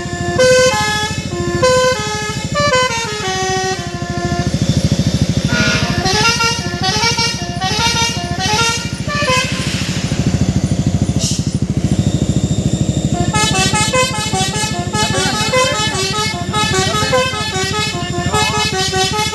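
Truck's basuri melody horn playing a tune of stepped notes over a truck engine's rumble. The tune breaks off for a few seconds past the middle, then starts again.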